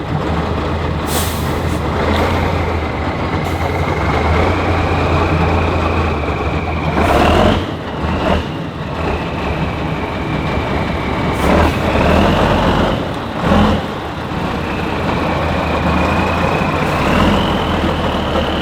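Heavy off-road trial truck's diesel engine running hard, with a high whine that rises in pitch a few times. Several short bursts of noise come through, about seven, eight and a half, eleven and a half and thirteen and a half seconds in.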